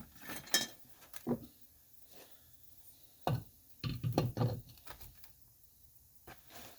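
Scattered clicks and knocks of small metal engine parts being handled and set down, a few sharp taps spaced irregularly.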